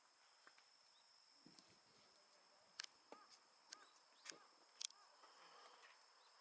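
Quiet background with a faint steady high-pitched tone, broken by about five light, sharp clicks or knocks in the second half.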